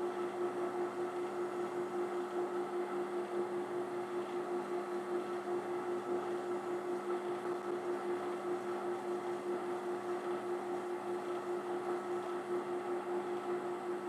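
Workshop machinery running steadily: an even motor hum with one steady tone and a slight regular pulse a few times a second, with no changes in load.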